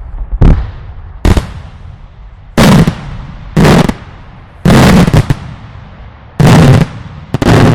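Daylight fireworks display: loud aerial shell bursts going off one after another, about one a second, seven bangs in all. Each bang rings out briefly and drives the recording to full scale, with a low rumble between them.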